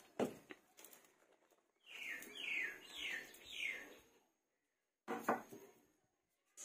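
A bird calling: four short falling notes about half a second apart, in the middle of the stretch, with a few sharp knocks before and after.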